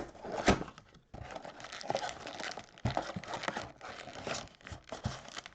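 Plastic trading-card pack wrappers crinkling and crackling as packs are torn open and handled, with an irregular run of sharp little crackles and a click just before.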